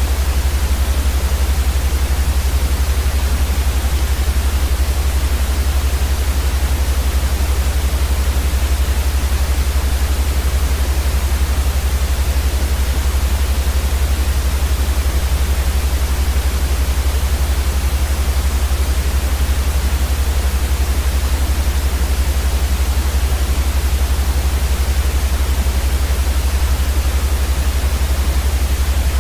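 Steady, unchanging white noise hiss, with a strong deep drone beneath it.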